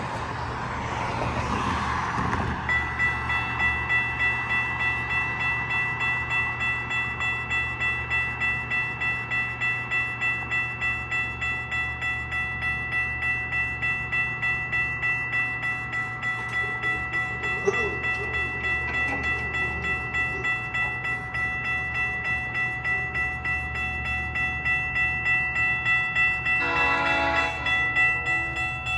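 Railway level-crossing warning bell ringing steadily, about two strokes a second, over a low rumble. Near the end a short pitched blast sounds, fitting a train horn.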